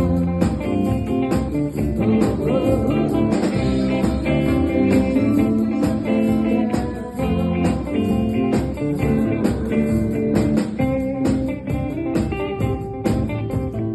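A band playing blues-style music led by guitar over a steady drum beat.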